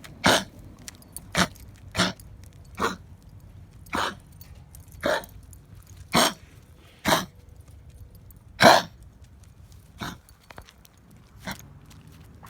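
A small ten-year-old dog coughing about eleven times in short, sharp bursts, irregularly about a second apart, the last two fainter. The owner puts the cough down to bronchitis or kennel cough.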